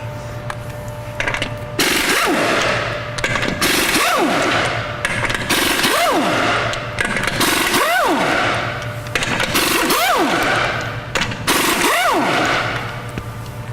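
Impact wrench hammering the lug nuts off a truck's rear wheel: about six rattling bursts roughly two seconds apart, one per nut, each with a whine that rises and falls as the tool spins up and stops.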